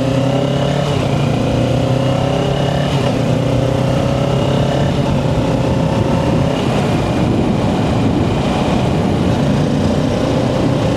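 Kawasaki Ninja 650's parallel-twin engine on its stock exhaust, pulling away and accelerating. Its pitch rises, drops at a gear change about three seconds in, and rises again, then holds steady as wind rush grows.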